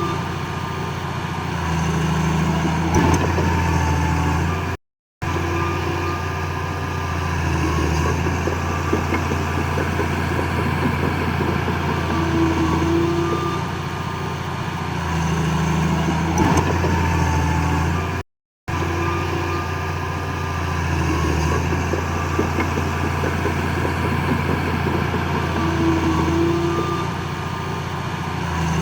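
Heavy diesel earthmoving machinery running steadily at work, with a few short squeals. The sound cuts out completely twice for a moment.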